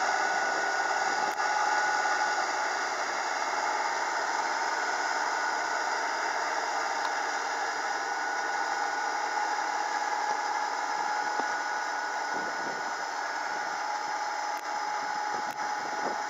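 Kubota tractor's diesel engine running steadily, an even drone with a couple of held whining tones over it.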